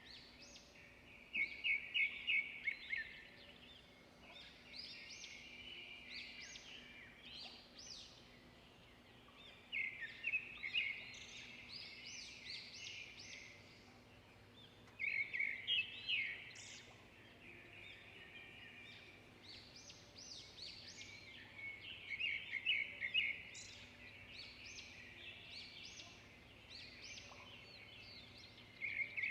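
Songbirds singing: a steady chorus of chirps, with a louder, rapid trilled phrase every five to seven seconds.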